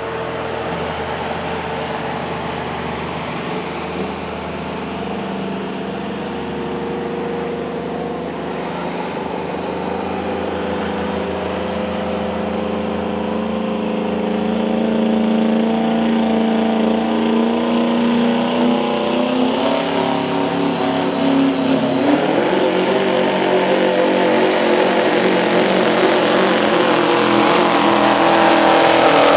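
Light Pro Stock diesel 4WD pulling truck's engine running hard and getting steadily louder, its pitch stepping up about three quarters of the way through.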